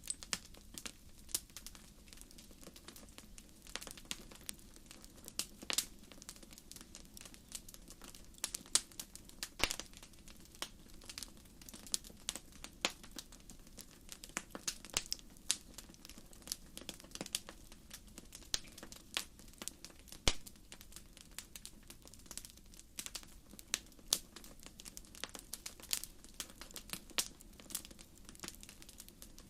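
Wood bonfire crackling: firewood popping and snapping in irregular sharp clicks, several a second, with one louder pop about two-thirds of the way through, over a low steady hiss of the flames.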